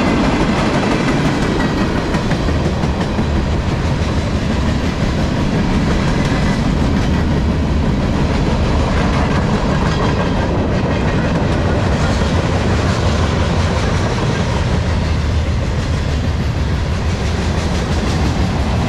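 CSX manifest freight train's tank cars and hoppers rolling past close by, the steel wheels running steadily on the rails.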